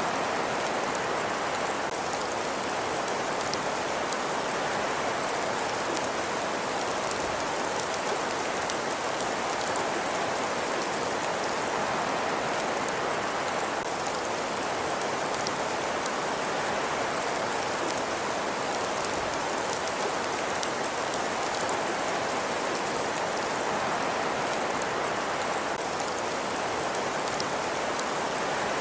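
Steady fireplace ambience: an even hiss with many faint, fine crackles throughout, holding a constant level.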